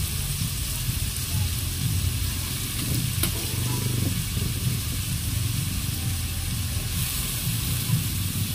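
Diced bamboo shoots and chicken sizzling steadily in a pot on the stove as they are stirred with a spatula, with one sharp click of the utensil against the pot about three seconds in.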